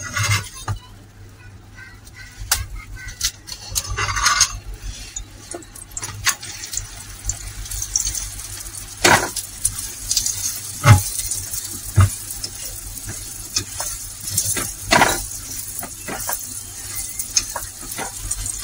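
Paratha frying in oil on a hot tava, a steady sizzle that grows louder after the paratha is turned about halfway through. A metal spatula scrapes and taps against the griddle a number of times.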